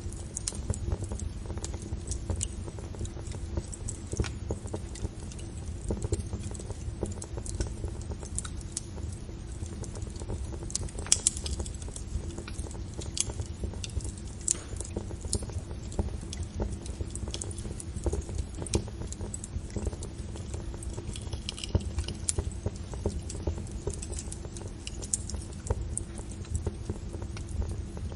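Wood fire crackling, with irregular sharp pops and snaps over a steady low rumble of the flames; one pop about eleven seconds in stands out as the loudest.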